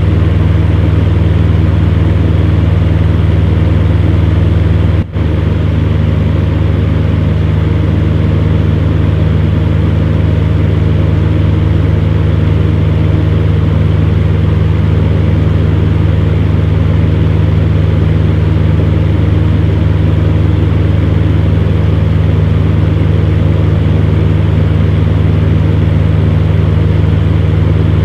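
Electric fan heater running: a steady low hum from its motor with even, airy fan noise over it, broken by one very brief dropout about five seconds in.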